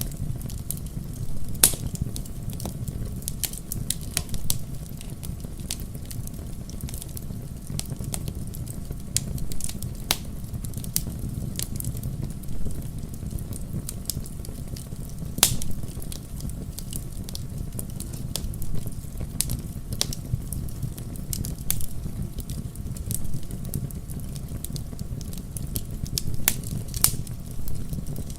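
Wood fire crackling in a fireplace: a steady low rumble of burning logs with frequent sharp pops and snaps, the two loudest about two seconds in and near the middle.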